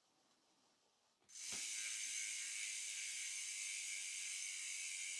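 Freewheel of a bicycle's rear hub buzzing as the freshly fitted wheel spins: a fast, even ratchet of pawl clicks that starts abruptly about a second in and holds steady.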